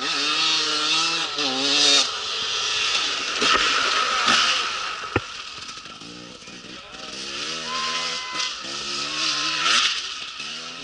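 Rally motorcycles racing past on a dirt stage, their engines revving with the pitch rising and falling through gear changes, over a steady rush of tyre and wind noise. The engines are loudest early on and again near the end, and there is a single sharp click about five seconds in.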